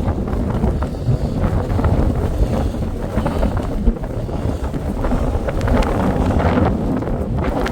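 Strong wind buffeting the camera microphone: a heavy, steady, low rumble of gusts.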